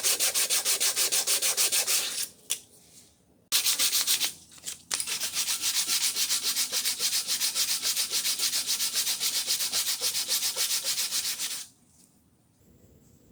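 Fast rhythmic sanding of rusted steel, about six strokes a second: rust being scrubbed off an old blacksmith's dengle hammer. It breaks off twice briefly a few seconds in and stops near the end.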